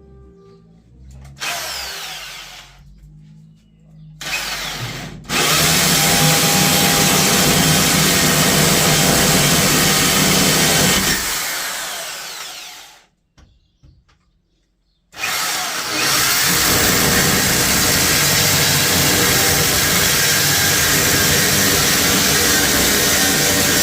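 A power tool running: two short bursts, then a long run of several seconds, a brief stop, and another long run.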